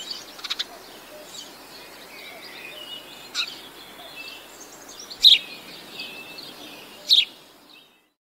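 Songbirds singing and chirping, with a few short, sharp, louder call notes. The sound fades out near the end.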